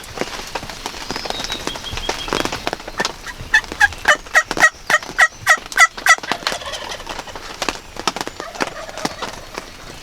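Wild turkey calling: a run of about ten yelps, roughly four a second, each note breaking from a higher to a lower pitch, starting a few seconds in. Raindrops tick on the ground blind around it.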